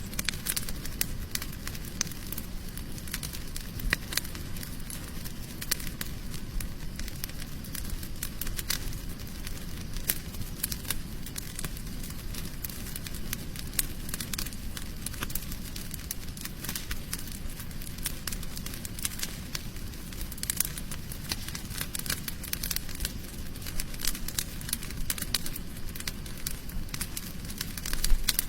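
Campfire crackling and popping: many irregular sharp snaps over a steady low rumble.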